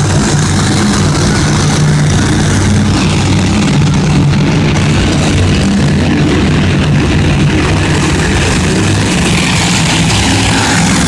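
Monster truck engine running loud and steady, its pitch rising and falling as it revs.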